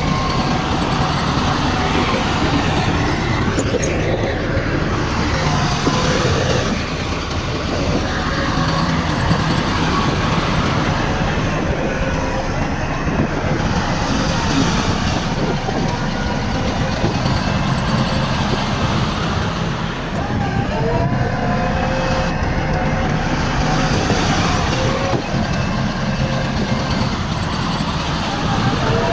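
Bulldozer diesel engine running steadily, with high whining tones that slide up and down in pitch over the machinery noise.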